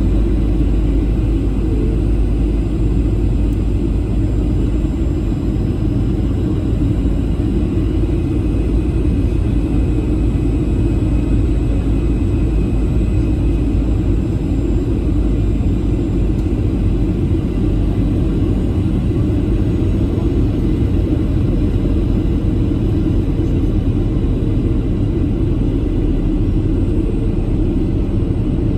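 Steady in-flight cabin noise of a Boeing 737-800 on approach: a constant low rumble of its CFM56 engines and the airflow over the fuselage, with no change in level.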